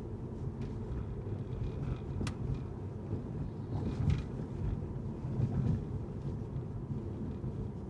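Car driving on city streets: a steady low rumble of tyres and engine, with a sharp click about two seconds in and a few light bumps.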